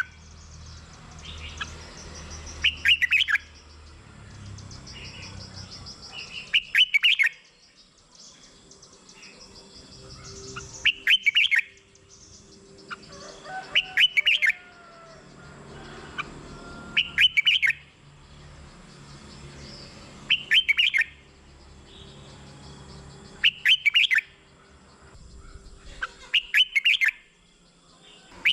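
Red-whiskered bulbul singing short, loud phrases, one about every three seconds, with quieter chirping between them.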